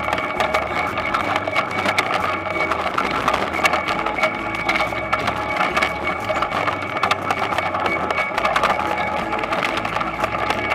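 Toyonoki potato harvester running: a steady mechanical rattling clatter with a thin steady whine over it.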